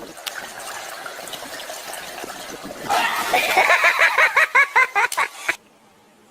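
Running, splashing water for about three seconds. Then comes a loud burst of quick, repeated high calls, four or five a second, which cuts off abruptly.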